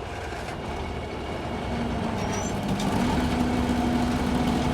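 Diesel engine of heavy machinery running steadily, growing gradually louder, with a steady hum joining in about halfway through.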